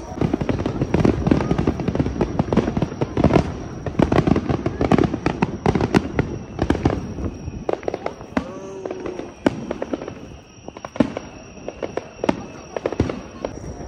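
Aerial fireworks exploding in a rapid barrage of bangs and crackles, thinning out to a few separate bangs over the last few seconds.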